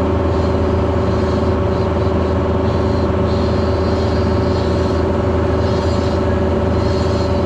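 Heavy equipment's diesel engine running steadily with a constant drone and an even hum.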